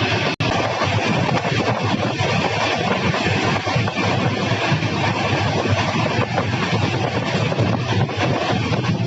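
Running noise of a moving passenger train, a steady dense rumble.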